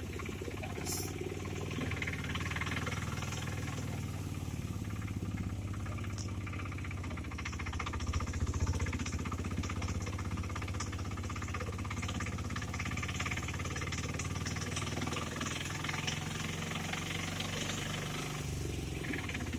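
An engine running steadily, a low even hum throughout, with a brief shift in its pitch near the end.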